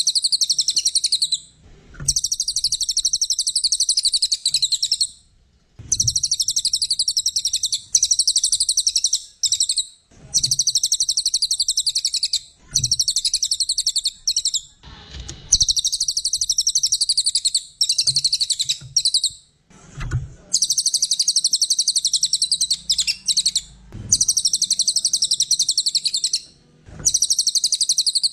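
A cililin songbird singing high, rapid chattering trills in bouts of a few seconds, with short pauses between them.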